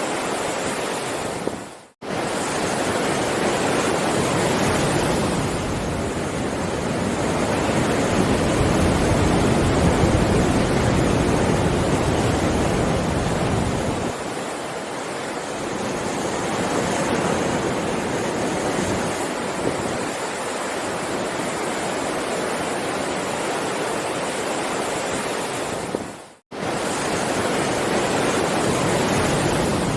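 Heavy ocean waves rushing and surging in a continuous wash, rising and falling slowly in strength. The sound briefly fades out to silence twice, about two seconds in and again near the end.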